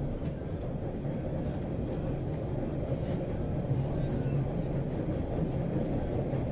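Subway train running: a steady low rumble that grows a little louder about halfway through.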